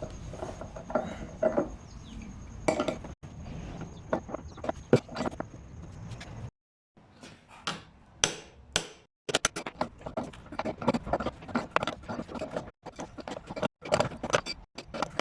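Repeated metallic clanks, knocks and clinks as an old electric water heater is pulled apart with tools, coming in several short bursts that cut off abruptly between them.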